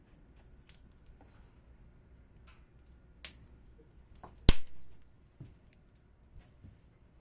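Wood fire crackling: sparse, irregular small pops, with one sharp loud pop about four and a half seconds in.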